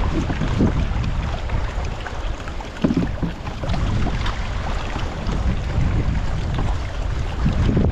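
Wind buffeting the microphone: a steady low rumble with a few short knocks, the sharpest just before the middle.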